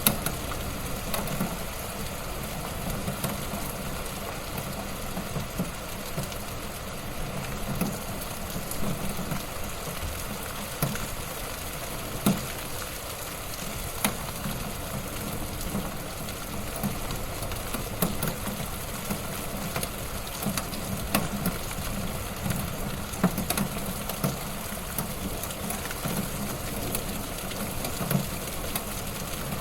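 Fire crackling in a fireplace: a steady low rumble of flames with frequent small snaps and a few louder pops.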